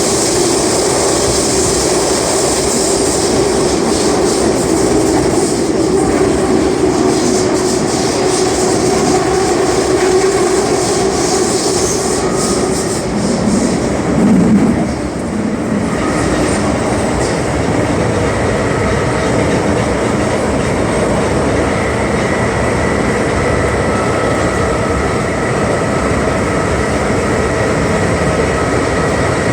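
Inside an MTR M-Train carriage running at speed: a steady rumble of wheels on rail. About halfway through there is a brief louder swell, and from then on thin steady whining tones from the train's traction equipment sit over the rumble.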